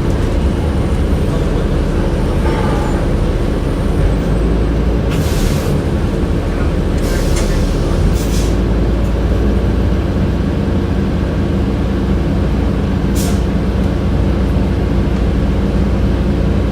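Inside a 2007 Orion VII city bus on the move: a steady drone of the engine and HVAC system. Short hisses of released compressed air, typical of the bus's air brakes, come about five seconds in, twice around seven to eight seconds, and once around thirteen seconds.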